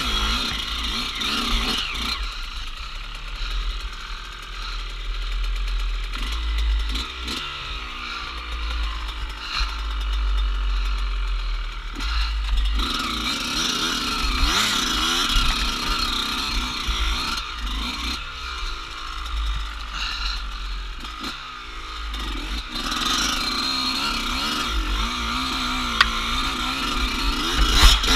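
Off-road dirt bike engine being ridden, revving up and down with the throttle so its pitch rises and falls again and again.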